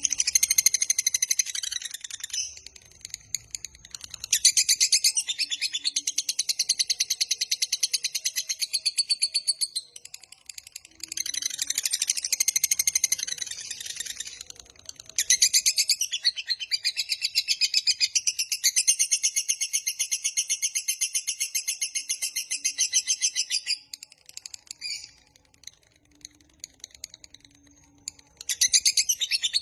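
Lovebird's 'ngekek panjang': long runs of rapid, high-pitched chattering trills, each several seconds long, broken by short pauses. Several runs in all.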